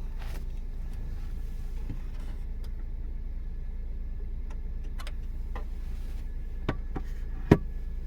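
Steady low hum with several sharp clicks and knocks scattered through it, the loudest knock about seven and a half seconds in.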